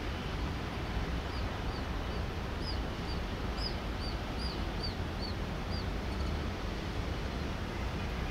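A bird calling a quick series of about a dozen short, high chirps over four or five seconds, over a steady rushing noise with a low rumble.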